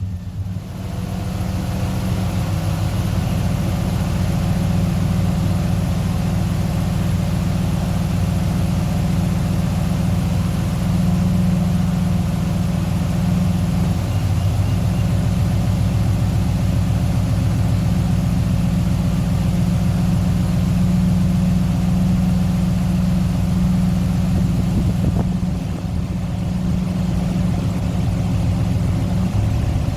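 Truck engine idling steadily just after being started, its sound building over the first couple of seconds and then holding even, with a brief dip about 25 seconds in.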